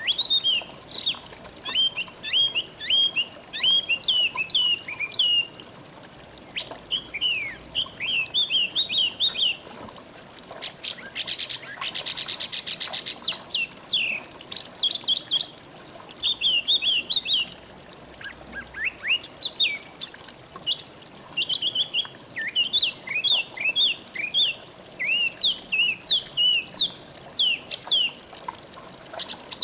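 Small songbirds singing, with quick runs of short, sharply rising and falling chirps and a fast buzzy trill about 11 to 13 seconds in. A faint steady high hiss runs underneath.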